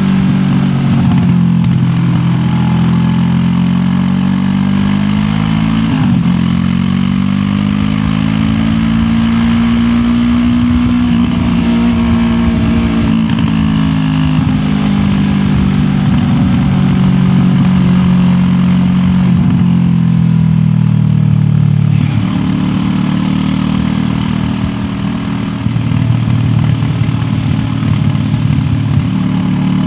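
QJ Motor SRT 700X motorcycle's parallel-twin engine under way, its note rising and falling as the rider accelerates and eases off. About two-thirds through the note drops sharply and briefly dips, then picks up again, over a steady haze of road and wind noise.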